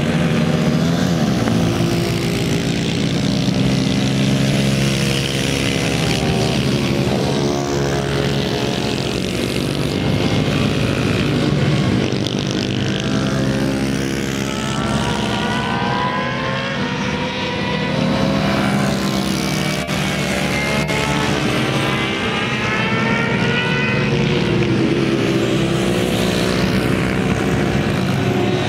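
Yamaha TT-R110 minibike's small single-cylinder four-stroke engine running steadily on a practice lap, with engine notes rising and falling in pitch through the middle stretch as revs change.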